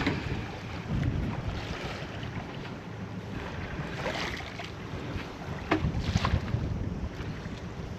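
Wind blowing across the microphone and water washing around a sailboat's hull, with a few short sharp knocks or splashes around the middle.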